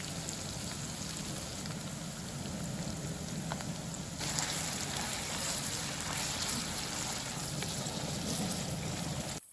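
Steady rain, an even hiss that grows brighter about four seconds in.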